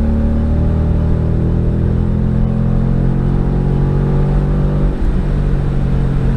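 2015 Ford Mustang GT's 5.0 V8 through an MBRP race cat-back exhaust, pulling hard on the highway under full throttle; the engine note drops to a lower pitch about five seconds in.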